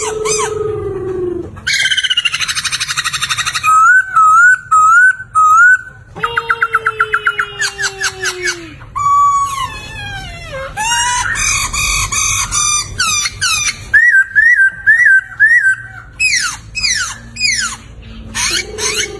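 Poksay (laughingthrush) singing a loud, varied song: long downward-sliding whistles, repeated up-and-down notes, fast runs of short notes and a couple of harsh, buzzy phrases.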